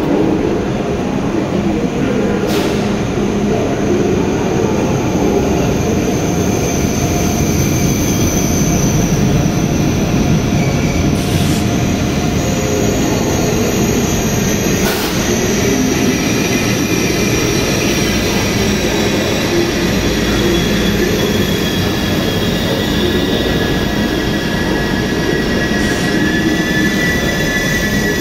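Deutsche Bahn ICE high-speed train moving past the station platform: a steady loud rumble of wheels on rails, with thin high whining tones drifting over it and a few sharp clicks.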